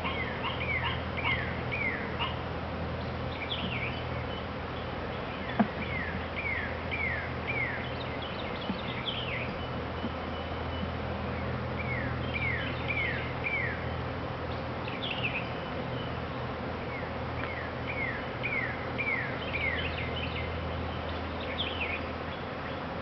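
Honeybees buzzing around an open hive with a steady low hum. A bird calls over it in several short runs of quick falling chirps, and there is one sharp click about five seconds in.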